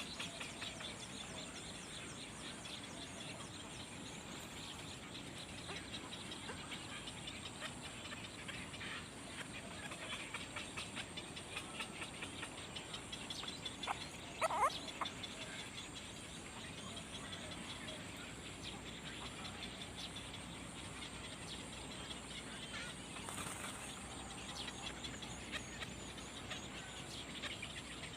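Baby birds in a nest chirping: many quick, faint, high chirps, with one louder short call about halfway through, over a steady high whine.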